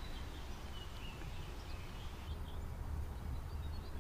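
Faint birds chirping, more often in the second half, over a low steady rumble.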